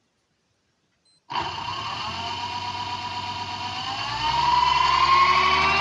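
Brushless DC motor rig starting up suddenly after about a second and a half of quiet, then running with a whine that rises slowly in pitch as it spins up and grows louder about four seconds in. It rattles while it comes up to speed, a rattle expected to settle down shortly.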